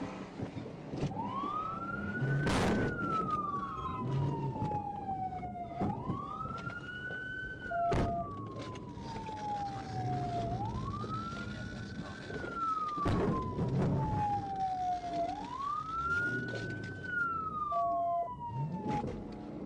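Police car siren on wail, each cycle climbing quickly and then sliding slowly down, about four times, with a few sharp knocks over it.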